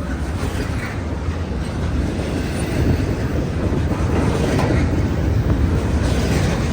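Freight train passing close by: a steady rumble and rattle of freight cars rolling over the rails, growing slightly louder about three seconds in.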